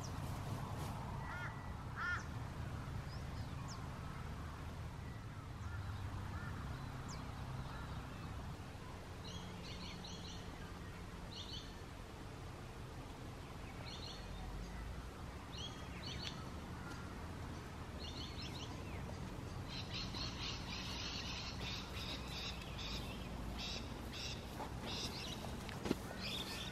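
Birds calling in the open: a couple of lower calls in the first few seconds, then repeated short bursts of high chirping calls, densest near the end.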